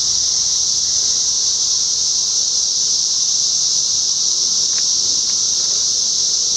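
Dense chorus of 17-year periodical cicadas: a steady, high-pitched drone that does not let up.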